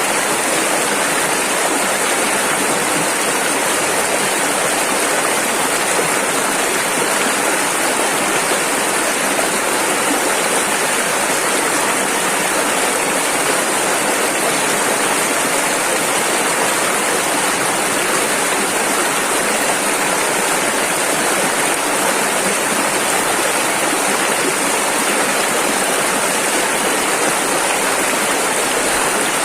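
Rushing river water, a steady, even rush with no breaks or separate splashes.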